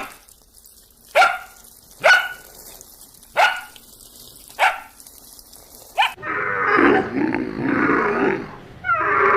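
A dog barking five times, short sharp barks about a second apart. It is followed about six seconds in by a long, rough animal grunting sound from a different animal.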